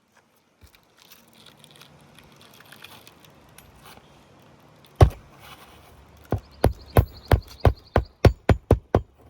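Hammer blows driving a roofing nail through asphalt shingles: one sharp strike about halfway through, then a quick run of about ten blows that come faster toward the end. Before them, faint handling noise.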